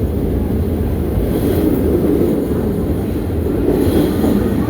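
New York City subway train running through the station, a loud steady rumble of wheels on rail with a faint high wheel squeal now and then.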